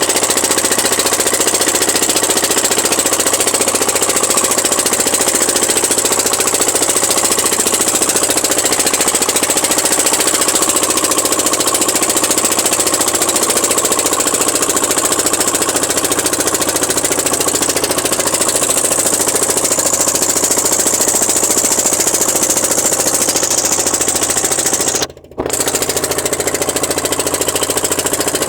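A boat's engine running steadily with a loud, fast knocking, close by. Near the end it cuts out for a fraction of a second, then carries on as before.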